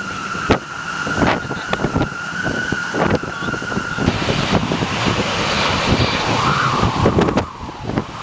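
Jet airliner engines with a steady high whine, while strong gusty wind buffets the microphone with repeated low thuds. About four seconds in, the whine gives way to a broader rushing jet noise.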